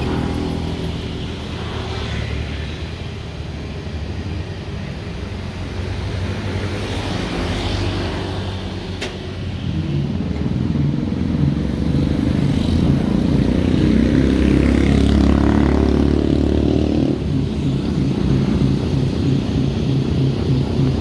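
Diesel-electric locomotive engine running with a steady low throb. About ten seconds in it revs up louder and higher, holds for several seconds, then eases back to a lower steady run near the end. A single sharp click about nine seconds in.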